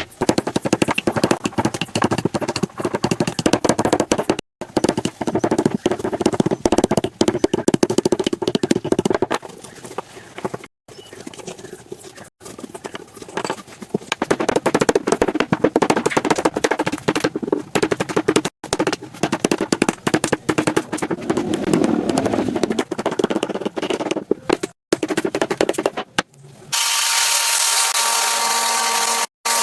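Wood being worked by hand in a run of short clips: dense, rapid knocking and scraping, with abrupt cuts between clips. Near the end a power tool starts up and runs with a steady whine.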